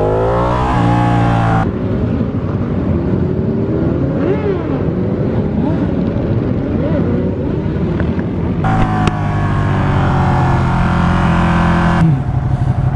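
Motorcycle engines running and revving, their pitch rising and falling as the riders pull away and shift gears, with the sound changing abruptly a few times.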